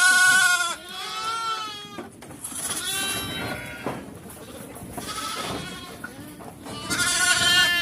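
Goats bleating: a loud bleat at the start and another near the end, with fainter bleats in between.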